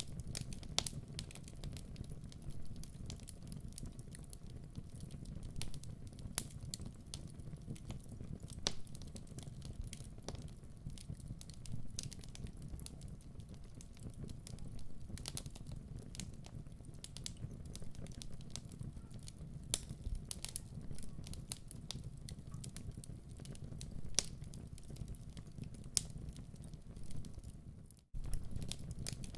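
Wood fire crackling and popping irregularly over a steady low rumble of flames; the sound drops out for a moment about a second before the end.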